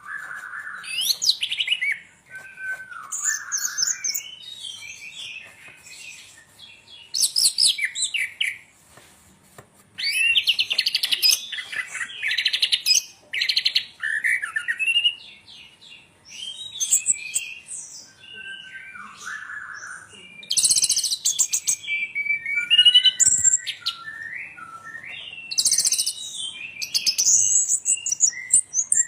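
A songbird singing a long, varied song of chirps, whistles and rapid high trills, delivered in phrases separated by short pauses.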